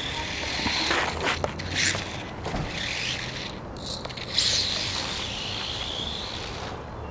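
Micro RC desert truck's small electric motor whining and its tyres scraping over the driveway, the whine rising and falling in pitch as it speeds up and slows.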